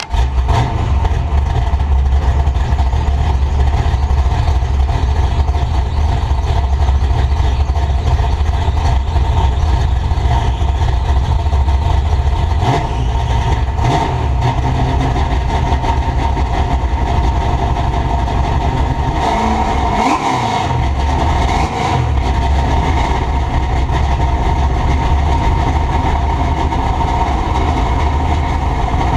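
Truck in motion: steady engine, road and wind noise picked up by a camera mounted in the truck's bed, with a heavy low rumble. The rumble drops out briefly about twenty seconds in.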